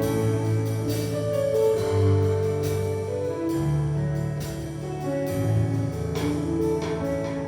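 Instrumental worship music between sung lines: sustained keyboard chords and bass with a drum kit keeping a steady beat.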